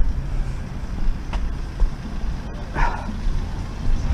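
Street ambience: a steady low rumble of road traffic, with one short sharp sound about three seconds in.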